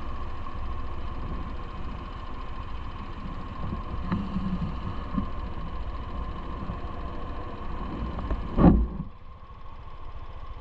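Steady running noise of a bike on the move, with a constant hum over a low rumble. About nine seconds in comes one loud knock, after which the noise drops.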